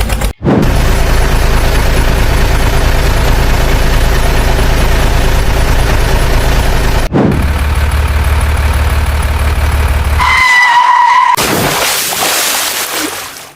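Steady vehicle engine hum spliced in as sound effects, cut off abruptly twice. Near the end come a short steady high tone and then a loud rushing noise that fades away.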